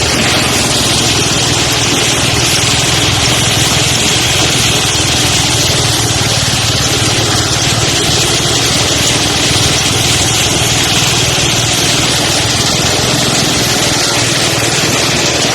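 Engine-driven rice thresher running steadily at work, a constant engine hum under an even hiss.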